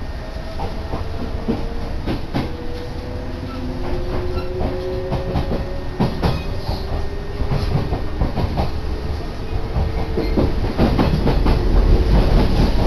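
Kintetsu local electric train pulling away from a station, heard from inside the car: a whine rising slowly in pitch as it speeds up, with wheels clicking over rail joints. The running noise grows louder toward the end.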